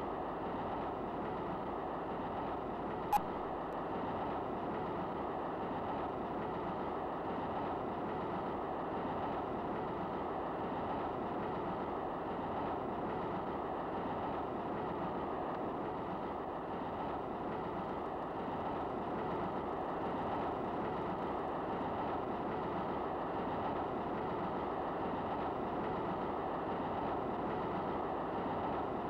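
Steady running noise of a train heard from inside a passenger compartment, the wheels rattling on the rails, muffled with no high end. A single sharp click stands out about three seconds in.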